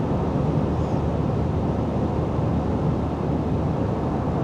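Steady in-cabin road and engine noise of a pickup truck cruising on a highway: an even low rumble with no change in level.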